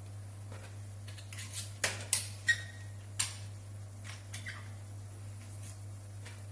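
Irregular light clicks and knocks of kitchen utensils being handled against bowls or the worktop, over a steady low electrical hum.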